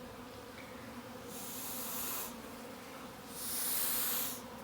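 Carniolan honeybees from a freshly hived package humming steadily in a mass. Two breathy hisses of about a second each come through, the first a little over a second in and the second past three seconds in.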